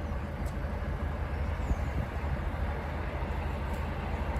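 Narrowboat engine running steadily at slow cruising speed, a low even engine note with a fine rapid pulse.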